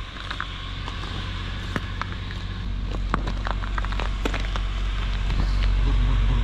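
Honda Fit's four-cylinder engine idling steadily just after a cold start, heard at the exhaust; the hum gets louder from about halfway through as the tailpipe comes close. Scattered crunching clicks of footsteps on icy pavement sound over it.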